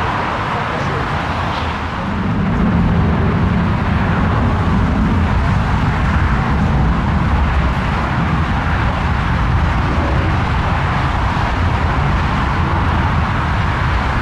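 Steady jet-engine noise from a Lufthansa Airbus A340-300's four CFM56 turbofans, getting louder about two seconds in and then holding steady.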